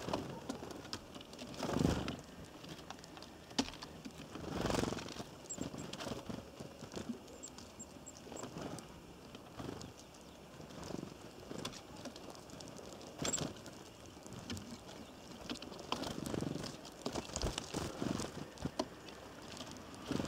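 Small birds at a feeder: irregular taps, scrapes and rustles, with a few faint high chirps.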